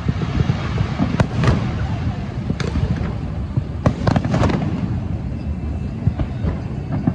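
Fireworks going off: scattered sharp bangs, with a quick cluster about four seconds in, over a continuous low rumble.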